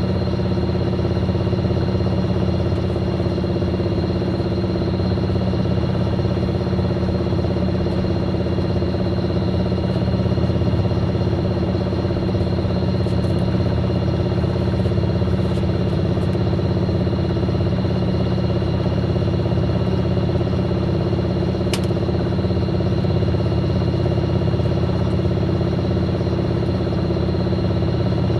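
Fisher & Paykel MW059 washing machine running steadily: a constant motor hum with a thin high whine that holds unchanged, as the drum spins. There is a single brief click about two-thirds of the way through.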